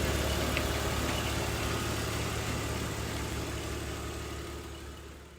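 BMW 330xi's straight-six engine idling steadily, the sound fading away near the end.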